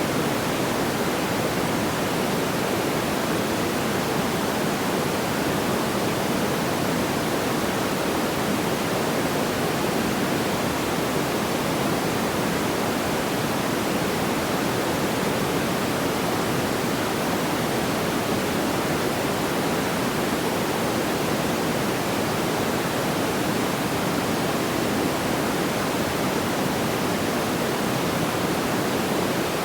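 Steady, even rushing noise like pink noise, deepest and fullest in the low-middle range, with no crackles or pops and no change in loudness.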